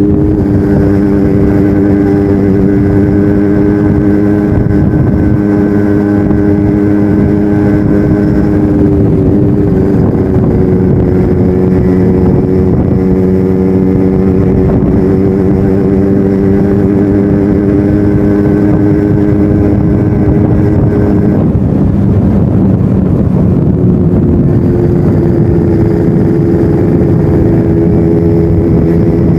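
Yamaha RX-King two-stroke single-cylinder motorcycle engine running steadily through its stock exhaust while ridden. Its pitch shifts about a third of the way in and again a little past two-thirds, where it turns rougher before settling at a steady pitch.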